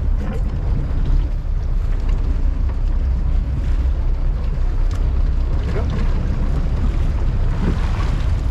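Steady low rumble of a sportfishing boat under way, with wind buffeting the microphone.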